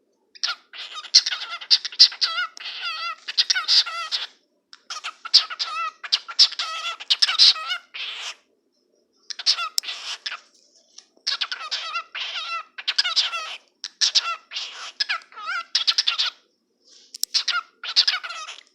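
Cockatiel talking: a pet cockatiel chatters in speech-like mimicry, in five runs of wavering, squeaky phrases broken by short pauses.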